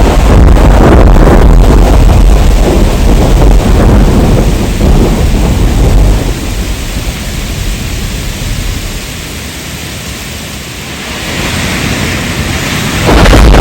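Heavy rain with a long roll of thunder: a loud deep rumble that dies away over several seconds to a quieter steady rain, then turns loud again abruptly near the end.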